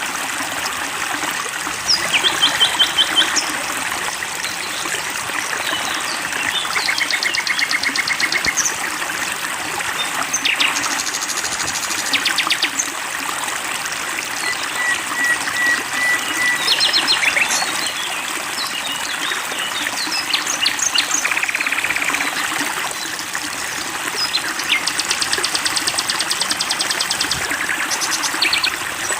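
Songbirds calling over a steady sound of flowing water: a string of different rapid trills of quickly repeated high notes, one after another, in a mixed songbird training recording.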